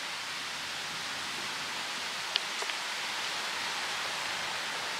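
Steady hiss of rain in an approaching thunderstorm, with two sharp ticks a fraction of a second apart about two and a half seconds in.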